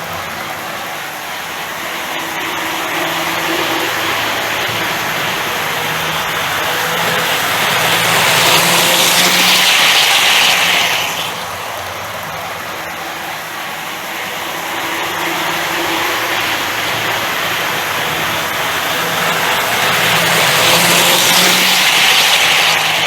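Hornby R057 0-4-0 steam tank engine model in OO gauge running on a test loop: a steady motor hum with wheel-on-rail rolling noise. It swells twice, about twelve seconds apart, as it comes round the loop.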